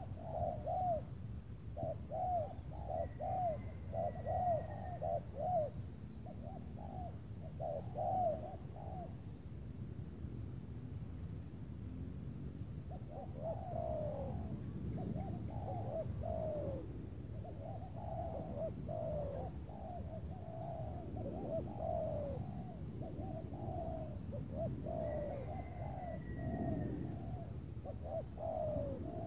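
Spotted doves cooing in long runs of quick repeated coos: one run over the first eight seconds or so, and another from about thirteen seconds to the end. Beneath it, a faint high trill repeats every couple of seconds over a steady low rumble.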